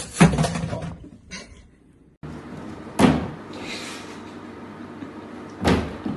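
Three sharp knocks or bangs: the loudest at the very start with a short rattle after it, another about three seconds in, and a third near the end.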